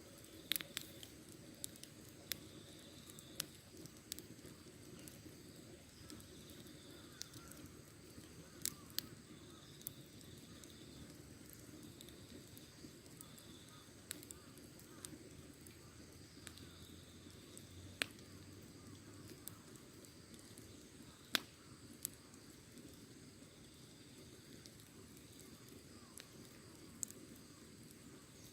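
Wood fire crackling: irregular sharp pops and snaps, a few of them louder, over a low steady hiss of burning.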